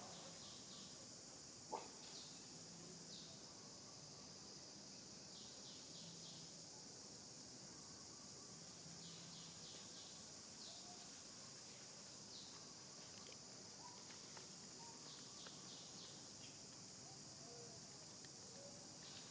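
Faint outdoor ambience: a steady high-pitched drone of insects, with scattered short, faint bird chirps and one brief sharp click about two seconds in.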